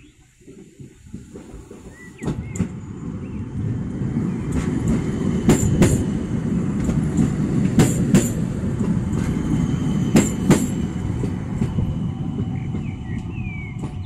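ŁKA Stadler FLIRT electric multiple unit running in along the platform: a rolling rumble of wheels on rail that builds, with three pairs of sharp clicks about two and a half seconds apart as its bogies cross a rail joint. The rumble eases near the end as the train slows. Birds chirp briefly near the end.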